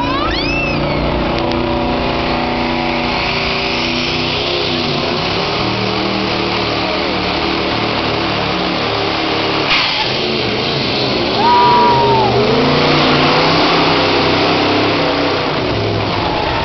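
Diesel engine of a hot-rod Mack semi pulling a sled, running hard under full load, with a sharp click about halfway and a louder stretch soon after that gradually eases off.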